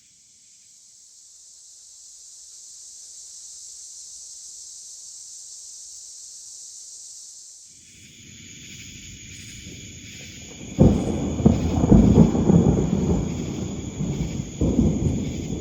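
A thunderstorm: steady high hiss of rain, then a low rumble that breaks into a loud roll of thunder about eleven seconds in, with a second peak near the end.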